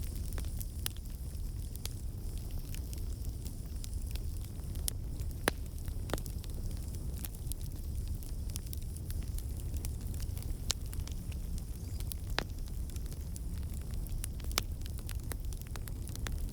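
Campfire burning: a steady low rumble of flame with scattered sharp crackles and pops of burning wood, a few louder ones standing out.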